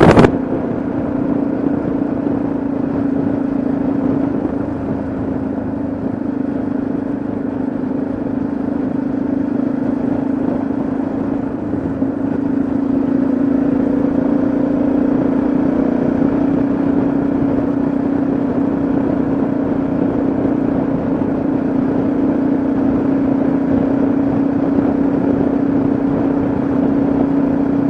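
Yamaha XT660Z Ténéré's single-cylinder engine running at a steady cruise, its note holding nearly level with a slight dip a few seconds in and again about halfway through, over a constant rush of noise.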